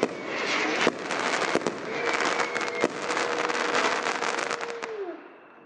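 Fireworks crackling densely, rapid sharp pops in a continuous stream, with a steady tone through the middle. The crackle dies away about five seconds in.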